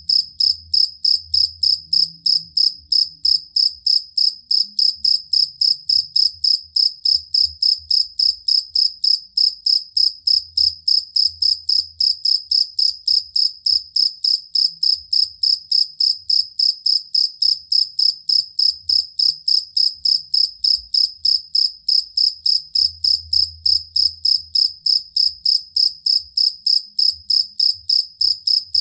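Jangkrik kalung (two-spotted field cricket) singing a steady, even chirp, about three chirps a second, high-pitched and unbroken.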